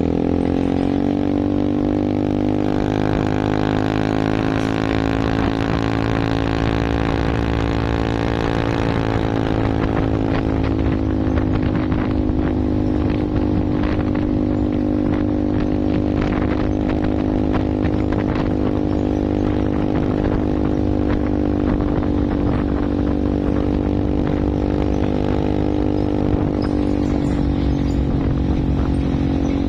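Vehicle engine running hard at steady high revs, its pitch rising about a second in and then holding level with a slight dip partway through.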